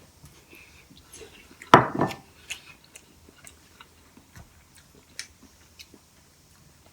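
Eating sounds: quiet chewing and light clicks of utensils on dishes, with one louder double knock or clatter about two seconds in.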